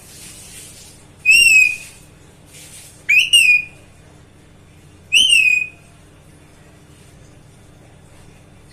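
Pet parrot giving short whistled calls, three times about two seconds apart, each swooping up and then down; the middle call is doubled. A soft hiss sounds near the start.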